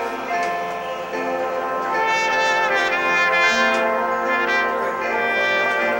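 Marching band brass section playing sustained chords, the sound growing brighter and fuller about two seconds in.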